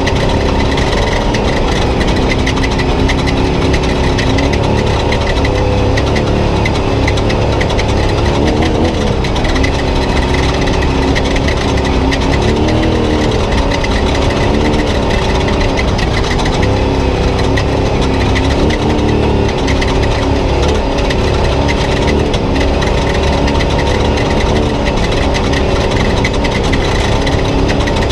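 Spec trophy truck's V8 engine running hard under racing load, its revs rising and falling over a constant heavy low rumble.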